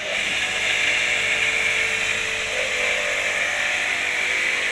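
Electric motor of an H&L QL-1200 high-pressure jet cleaner switching on at the start and then running steadily, a motor tone over a loud hiss.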